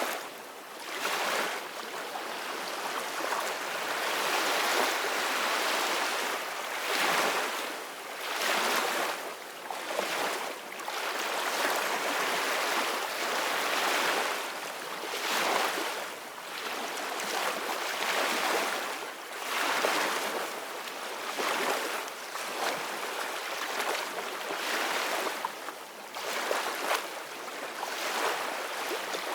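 Ocean waves breaking and washing on a shore: a continuous rushing surf that swells and eases every few seconds.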